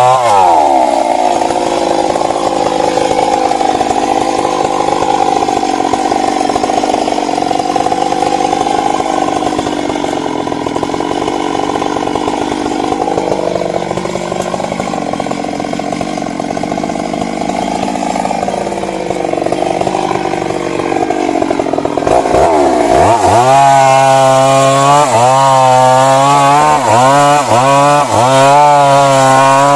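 Stihl MS 382 two-stroke chainsaw cutting into wood under steady load, its pitch held down. A little over twenty seconds in it comes free of the cut and revs higher, the throttle pulsing up and down.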